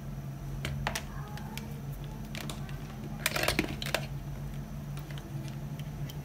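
Scattered light clicks and taps, with a quick cluster of them a little past the middle, over a steady low hum.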